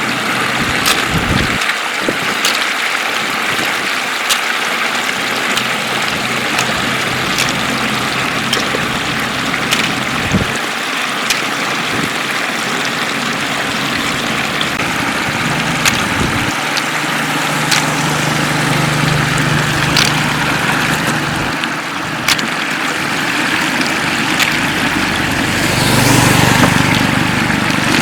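Floodwater flowing over a road: a loud, even rush of water, with scattered sharp clicks throughout and a low hum for a few seconds past the middle and again near the end.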